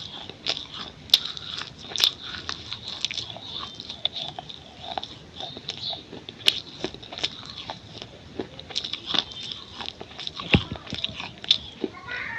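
Pieces of a baked clay bowl being bitten and chewed close up: a run of irregular sharp, crisp crunches, several a second.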